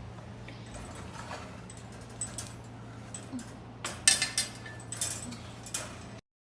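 A few sharp clinks and rattles of small hard objects being handled, most of them from about four seconds in and the loudest just after that, over a steady low hum.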